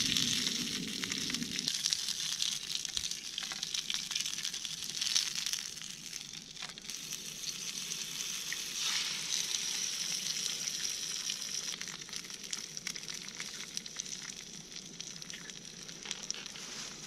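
Sausages sizzling and spitting in oil in a rectangular aluminium mess tin over a gas camp stove. About nine seconds in, eggs are cracked into the pan and the sizzling briefly grows louder before settling into a steady fry.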